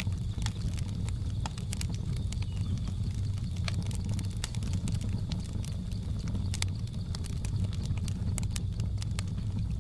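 Wood fire crackling, with frequent sharp irregular pops over a low steady rumble, and a faint steady high-pitched drone of the jungle ambience behind it.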